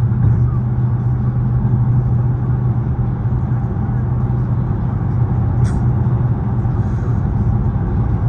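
Dodge SRT 392's 6.4-litre HEMI V8 with the muffler deleted, running at a steady cruise with a constant low exhaust drone. A short click sounds about five and a half seconds in.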